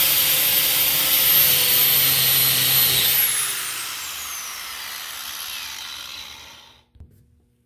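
Angle grinder fitted with a cup-style wire wheel, running at full speed. About three seconds in it is switched off, and its whine falls in pitch as it spins down and fades away. A light knock follows near the end.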